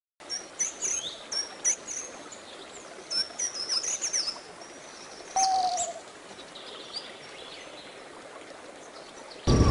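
Birds chirping: flurries of quick, high chirps over a light hiss, with one louder, lower drawn-out call about five seconds in. Right at the end a loud rush of wind-like noise cuts in.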